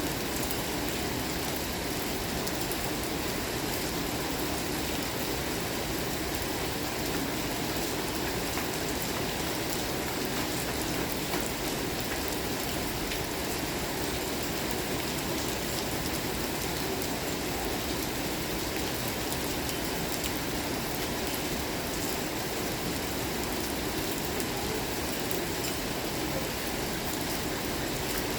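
Steady rain falling: an even, unbroken hiss with scattered individual drops ticking through it.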